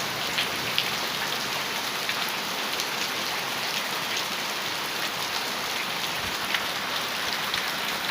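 Heavy rain falling on a metal roof: a steady, even hiss with many sharp individual drop ticks scattered through it.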